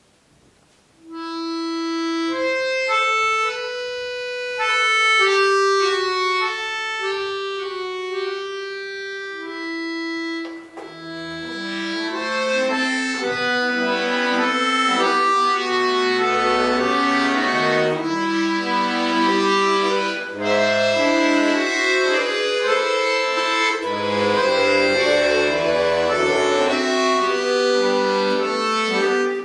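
Accordion duet playing a slow Russian folk-song arrangement. A single sustained melody line begins about a second in, and around ten seconds in a second part with low bass notes joins and fills out the sound.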